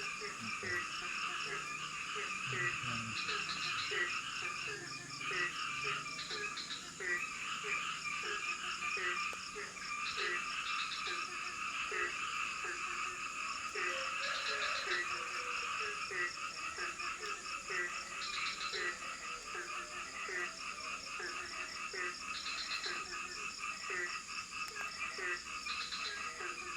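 Frogs calling in a night chorus: a low croak repeats about every two-thirds of a second over a dense, steady, pulsing chorus of higher calls.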